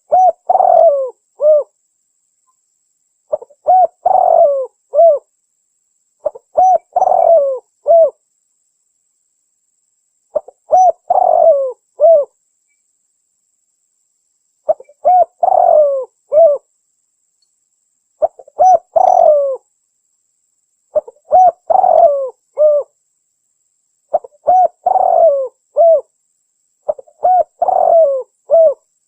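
Spotted dove (tekukur) cooing: a recorded hunting lure call, billed as a female calling the male. A phrase of several coos repeats nine times, about every three seconds, with clean silence between phrases.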